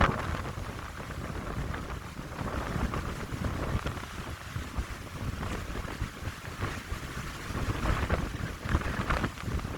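Wind gusting through a pine grove, with a steady low rumble from wind buffeting the microphone. A hiss swells with a gust at the start and again about eight to nine seconds in.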